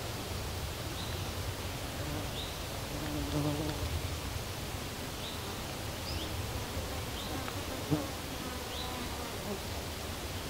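A flying insect buzzes briefly past, about three seconds in, over a steady low outdoor rumble. Short high rising chirps repeat about once a second throughout, and there is a single light tap near the end.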